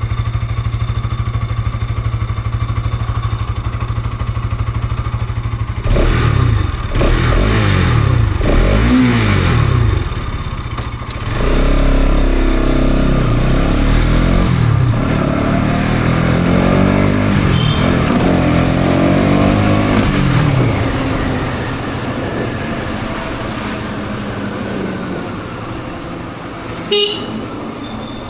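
Bajaj Pulsar NS200's single-cylinder engine through its stock exhaust: a steady idle, then quick throttle blips with the pitch jumping up and falling back, then a longer stretch of repeated rising revs that fades away. A short horn toot near the end.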